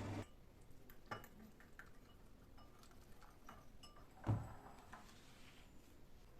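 A running kitchen appliance's steady hum cuts off just after the start. Then come scattered light clicks and clinks of dishes and utensils being handled, with one soft thump a little past four seconds in.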